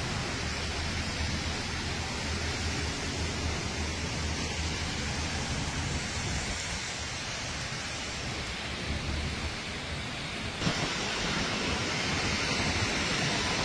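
Heavy rain and floodwater on a street: a steady hiss of rain and running water with a low rumble beneath, changing abruptly about eleven seconds in.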